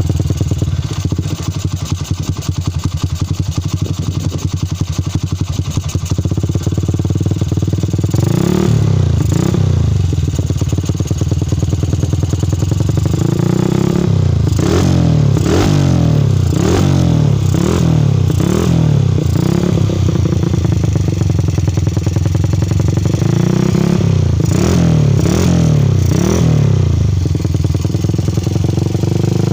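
Motorcycle with an aftermarket TLR Muffler silencer idling, then revved in quick repeated blips, its pitch rising and falling with each blip: once about a third of the way in, a longer run through the middle, and again near the end.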